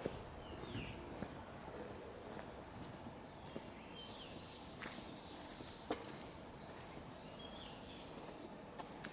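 A small bird calling: a quick run of about five high arching notes in the middle, with short falling chirps before and after. The background is a quiet morning street, with a thin steady high whine early on and a few sharp clicks.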